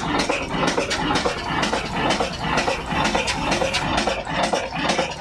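Vintage engine running, with a dense, irregular clatter of knocks.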